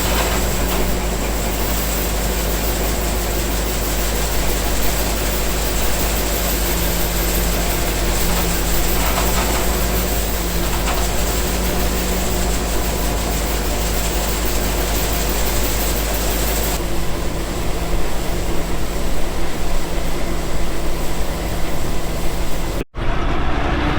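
Heavy farm machinery running steadily, engine and drivetrain noise with a steady hum. The sound changes character about two-thirds of the way through and cuts off briefly near the end.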